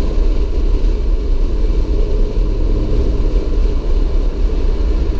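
A moving car's steady low rumble of engine and road noise.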